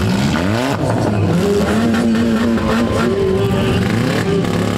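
Several four-cylinder demolition derby cars revving their engines together, a crowd of overlapping engine notes that rise and fall, with a sharp burst of rising revs right at the start.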